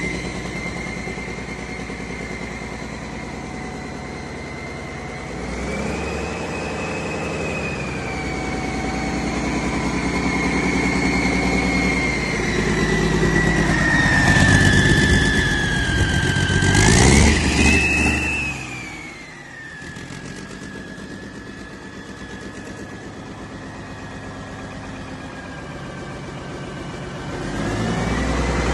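2013 Cummins QSX15 15-litre inline-six diesel engine running on a test stand, with a high whine over the engine note. Its speed builds to a peak about 17 seconds in, drops back to a lower speed a couple of seconds later, and starts rising again near the end.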